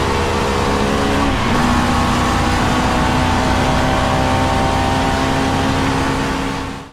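BMW E30 M3 GTM race car running under load, its engine and straight-cut racing gearbox making a loud, steady multi-toned whine. About a second and a half in, the tone briefly breaks and settles slightly lower, then holds steady until it cuts off at the end.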